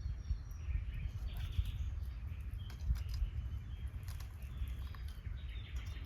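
Birds chirping in short calls over a steady low rumble, with scattered light clicks.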